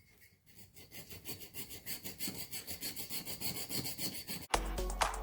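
Rapid back-and-forth hand rubbing strokes, about three a second, over the cured putty filling the holes in an old drill-press vise, smoothing it down by hand. Background music cuts in suddenly near the end.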